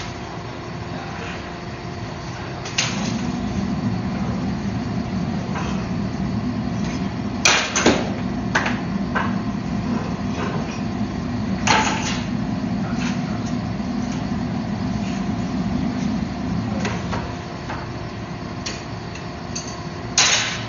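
A forge running with a steady low hum. Sharp metallic clanks come twice around a third of the way in, once near the middle and once just before the end: tongs turning the steel billet in the forge so it heats evenly.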